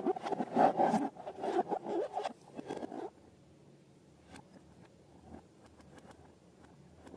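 Slime being worked by hand: sticky, crackling squelches for about three seconds, then stopping suddenly, leaving only a few faint clicks.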